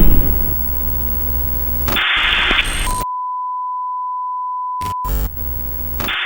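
Music, then a short noisy burst, then a steady high beep tone held about two seconds, like a censor bleep covering a word. The music briefly returns after it.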